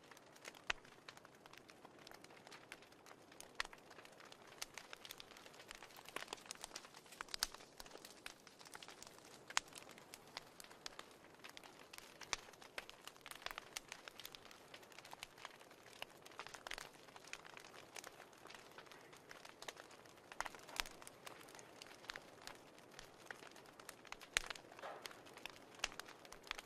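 Faint fireplace crackling: irregular sharp pops and snaps over a low steady hiss.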